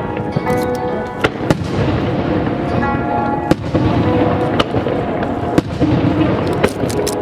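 Fireworks bursting in a dense barrage of rumbling booms, with music playing over the venue's loudspeakers. Sharp cracks and clicks stand out a dozen or so times.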